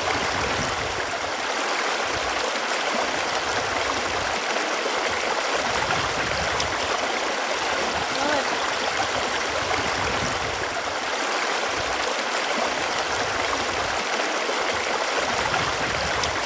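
Running water: a steady rushing and gurgling flow of a stream.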